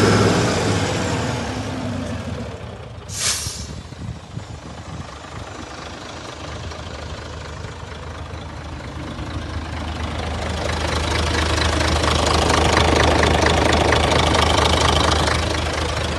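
Scania 94 260 truck's diesel engine running: it dies down over the first two seconds and settles to an idle, with a short air-brake hiss about three seconds in. From about ten seconds in the engine grows louder again and eases off near the end.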